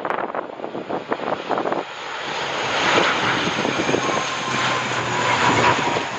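An airliner passing close on its landing approach, its engine noise building from about two seconds in, with a faint steady whine. Gusts of wind buffet the microphone at the start.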